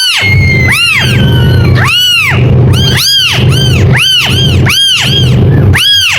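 Kitten meowing over and over, high-pitched calls that each rise and fall in pitch, about one every second or faster, over a steady low hum.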